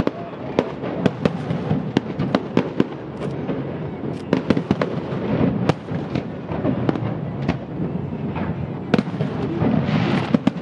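Aerial fireworks shells bursting: a rapid, irregular series of sharp bangs and pops, several a second, over a steady background din, with a brief denser hiss about ten seconds in.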